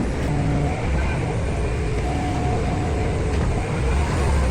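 Steady low mechanical rumble like a running engine, with faint voices in the background.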